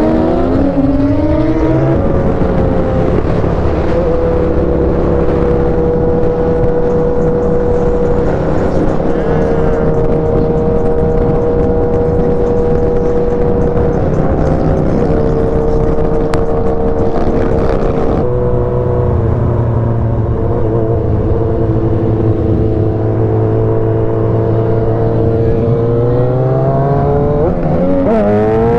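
Sport motorcycle engine running at road speed with rushing wind noise. Its pitch holds steady for long stretches, shifts a few times, and rises near the end as it speeds up.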